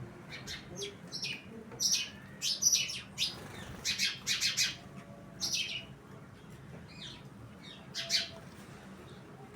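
Small birds chirping: many short, sharp, high calls in quick runs, busiest in the middle, then a few scattered chirps near the end.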